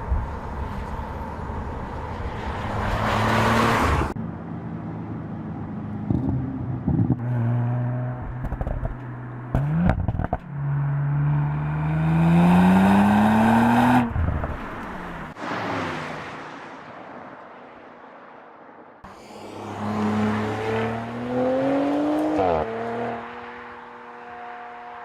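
Twin-turbocharged Audi RS estate engine heard through its sports exhaust, idling and revving. It rises in pitch twice, the first rise long, with sudden jumps between takes.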